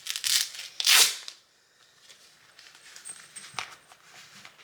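A leather motorcycle glove being handled and pulled on: two quick ripping sounds in the first second and a half, the second one loud, then faint rustling and a sharp click about three and a half seconds in.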